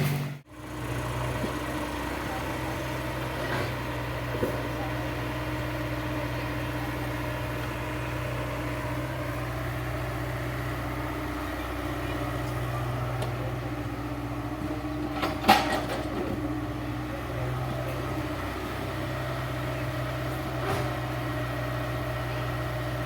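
Heavy machine's diesel engine running steadily at a low, even pitch. A sharp knock stands out about two-thirds of the way through, with a few fainter clanks elsewhere.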